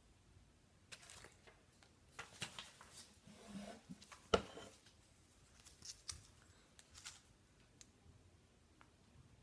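Indoor handling noises: scattered light clicks and short rustles, with one sharp knock about four seconds in.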